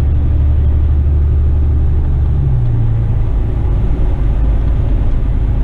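Western Star tipper truck's diesel engine running steadily under way, with a low drone and road noise. The engine note shifts about halfway through.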